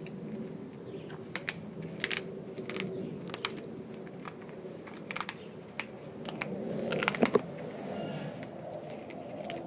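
A Doberman chewing raw chicken quarters, with irregular sharp crunches and clicks as her teeth work through the meat and bone, loudest in a quick cluster about seven seconds in.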